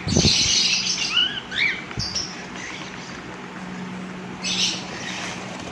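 Young birds chirping and giving harsh, rasping begging calls, with short rising-and-falling chirps, over a steady low hum.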